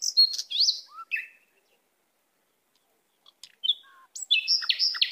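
Small birds chirping: a few high, slurred calls in the first second, then a quick run of repeated short chirps near the end.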